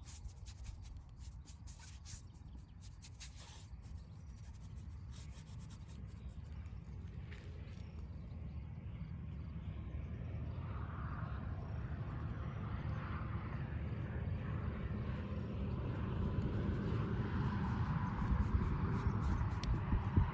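A distant engine drone, low and steady, growing gradually louder. Faint scratches of a brush working paint onto the canvas come in the first few seconds.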